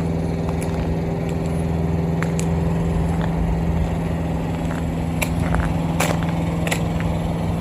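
Heavy truck diesel engine idling steadily, with a few light clicks in the second half.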